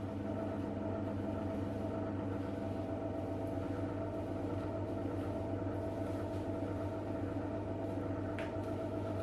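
A small motor or household appliance running with a steady hum, and a light click about eight seconds in.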